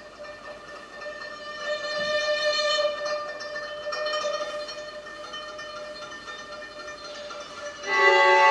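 Music for the dance with bowed string instruments, led by a violin: long held notes that swell about two seconds in, and a louder chord that enters near the end.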